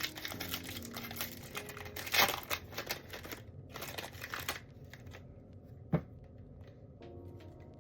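Foil booster pack wrapper crinkling and tearing as a Pokémon card pack is opened, with dense rustling for the first four and a half seconds, then lighter handling and a single sharp click about six seconds in.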